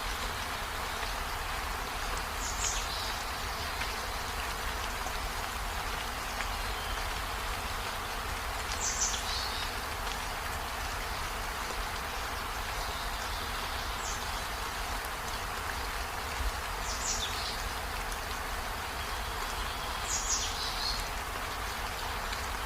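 Steady rain falling, an even hiss, with a few brief high chirps that drop in pitch, about five of them a few seconds apart.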